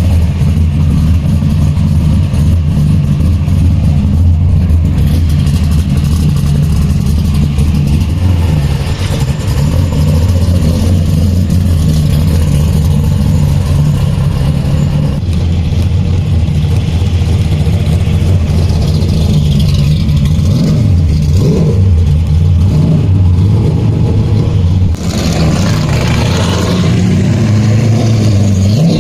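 1969 Chevrolet Camaro race car's V8 engine, heard on board at racing speed, its note holding steady for long stretches and rising and falling with gear changes and corners.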